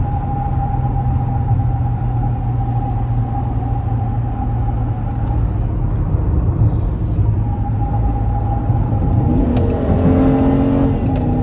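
Ex-police Dodge Charger accelerating hard, heard from inside the cabin: steady engine and road rumble with a constant whine. Two sharp clicks come near the end.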